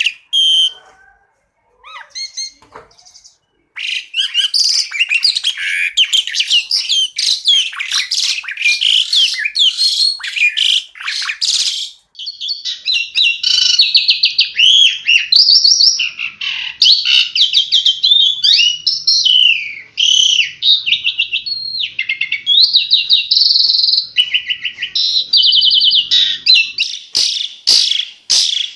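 Songbird song: a fast, varied run of loud chirps, rapid trills and repeated notes, with a pause of about three seconds near the start and harsh, rattling notes near the end.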